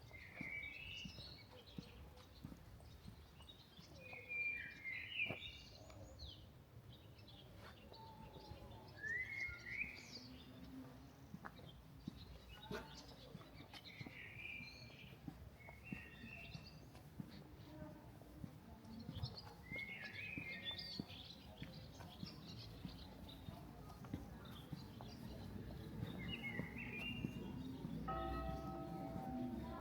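Songbirds chirping and trilling in short phrases every second or two over a low city background hum.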